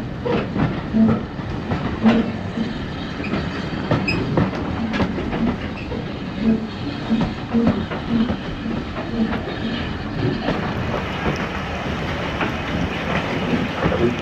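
Heritage railway coach rolling along, heard from inside the carriage: a steady rumble with repeated clicks and knocks of the wheels running over rail joints.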